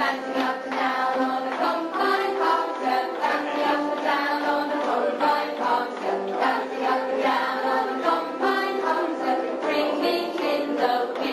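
Music with a group of voices singing along, the pitch moving from note to note without a break.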